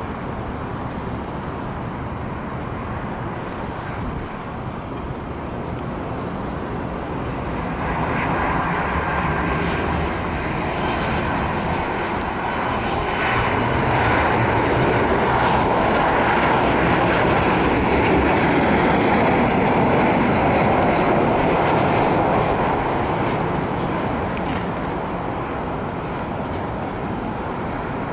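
Jet engines of a Boeing 737-800 landing, a steady jet rumble and rush that swells about a third of the way in, is loudest in the middle and fades toward the end as the airliner passes. The engines are CFM56-7B turbofans.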